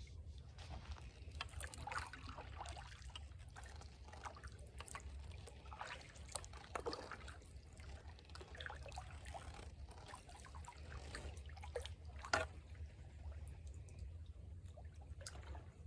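Water trickling, dripping and lightly splashing, as from a kayak paddle dipping into the river, with a steady low rumble underneath. One sharper knock about twelve seconds in.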